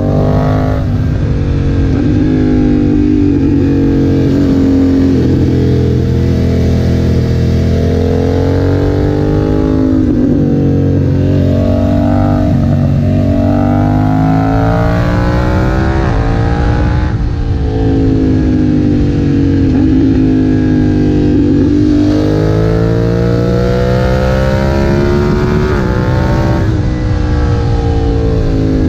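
BMW F900R's parallel-twin engine through a Leo Vince aftermarket exhaust, ridden hard: the engine note climbs and drops over and over as the bike accelerates, shifts gear and rolls off the throttle.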